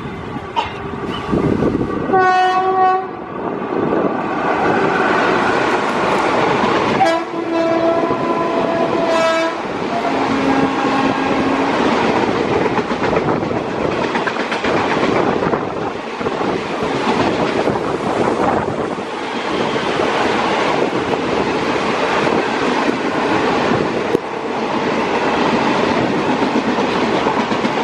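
Passenger express train passing at speed in heavy rain, its horn sounding a short blast about two seconds in and a longer one around seven to nine seconds in. After that come the steady rumble and clickety-clack of the coaches rolling by.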